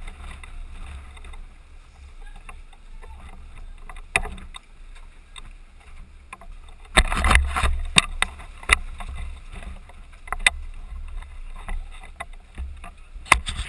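Low rumble of wind and handling on a gun-mounted action camera, with scattered sharp clicks and knocks starting about seven seconds in.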